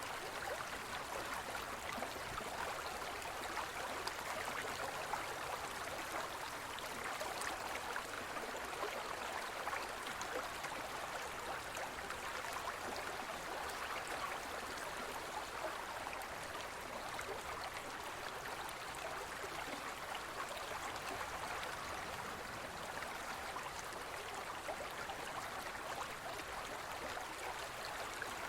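Gentle forest stream flowing, a steady rushing and burbling of water.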